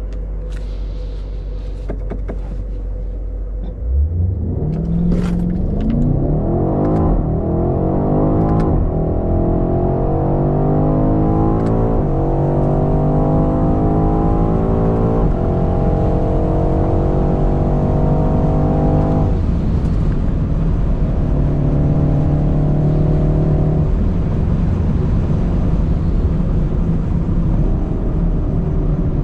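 BMW X5 M (F95) twin-turbo V8 accelerating hard from a steady cruise. About four seconds in, the engine note jumps up and climbs in pitch, dropping back at each of several quick upshifts, then settles to a steadier note near the end.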